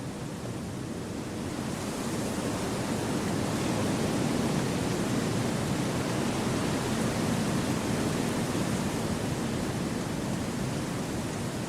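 Wind blowing through forest trees, a steady wash of noise that builds over the first few seconds and then holds.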